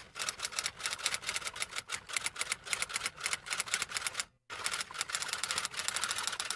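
Rapid typing: a fast, uneven run of key clicks, several a second. It breaks off briefly about four and a half seconds in and then starts again.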